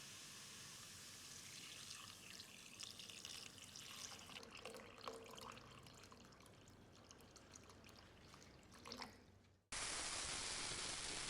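Water pouring and trickling with small irregular splashes, fading out. A steady hiss cuts in abruptly near the end.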